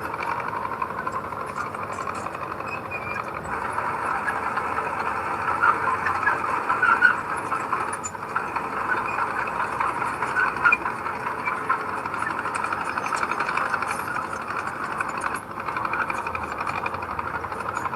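Heavy earth-moving machinery running steadily at work, with a few louder surges partway through.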